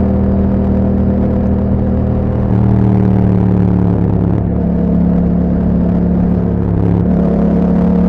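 Yamaha MT-07's parallel-twin engine running through an Akrapovic exhaust at fairly steady revs, its pitch stepping to a new level a few times: a couple of seconds in, near the middle and near the end.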